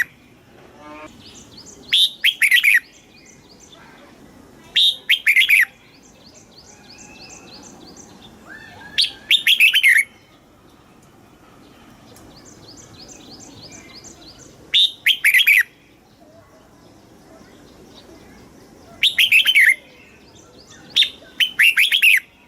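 Red-whiskered bulbul singing: six short, loud warbled phrases a few seconds apart, the last two close together near the end. Fainter quick, repeated twittering runs between them.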